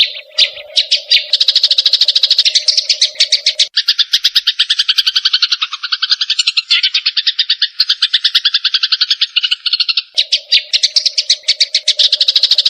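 Cucak jenggot (grey-cheeked bulbul) and Eurasian tree sparrows giving rapid, harsh agitated chattering, many notes a second, the calls of birds fighting. The chatter shifts to a lower, fuller pattern for several seconds midway and then returns to the higher run.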